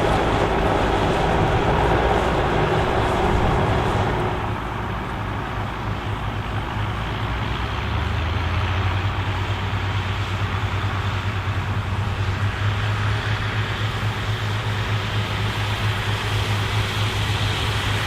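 Massey Ferguson 2680 tractor's diesel engine running under load while pulling a cultivator. About four seconds in the sound gets quieter and duller, leaving a steady low engine drone that strengthens again a few seconds later.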